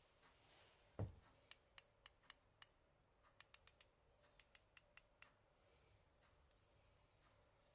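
A Shimano Stella spinning reel being handled: a soft thump about a second in, then about a dozen sharp metallic clicks with a slight ring, in quick runs of four or five, ending a little after the middle.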